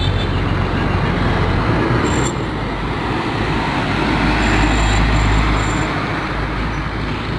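Road traffic passing close by on a highway: a steady vehicle rumble that swells about halfway through and eases toward the end.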